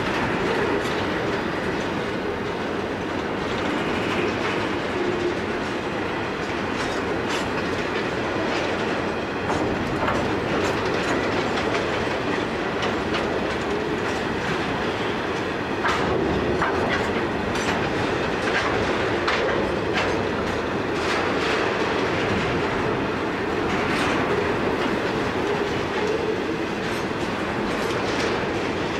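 Grain hopper wagons of a freight train rolling past, a steady rumble with the steel wheels clicking over rail joints again and again.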